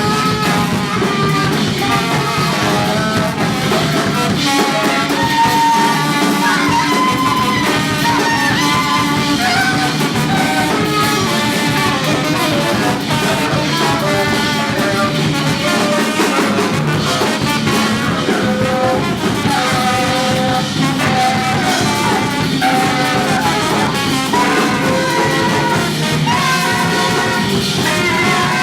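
Live free jazz quartet playing: saxophone and trombone lines over bass and drums, loud and dense, with no pause.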